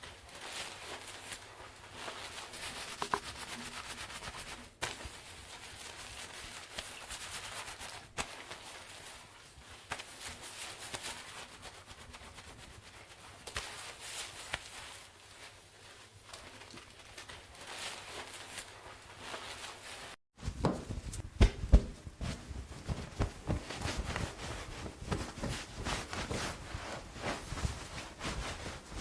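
Long wet hair being handled by hand as it dries: uneven rustling and rubbing strokes. About two-thirds of the way through the sound cuts and comes back louder, with heavier low thumps and rustles.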